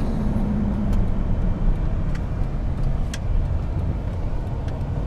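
Steady low rumble of a vehicle driving, heard from inside the cabin, with a couple of faint ticks.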